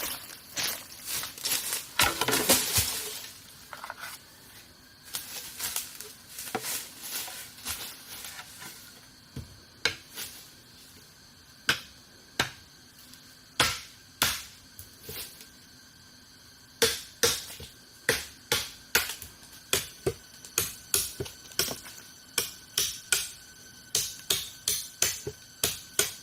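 A run of sharp knocks and taps, as of a tool striking a hard surface. There is a burst of crunching and cracking about two to three seconds in, and the knocks become quicker and more regular, roughly one to two a second, in the second half.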